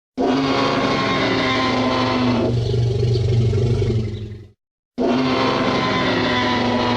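Tyrannosaurus roar sound effect, a loud drawn-out roar with a steady pitched tone that shifts lower about halfway through before fading out. After a brief silence the identical roar starts again.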